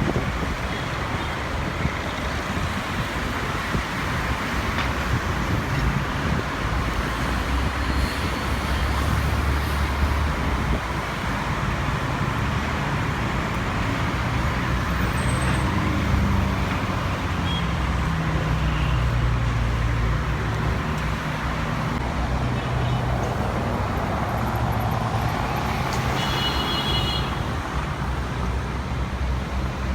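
Steady rumble of motor engines and road traffic, with a low hum that wavers slowly and a brief high tone about 26 seconds in.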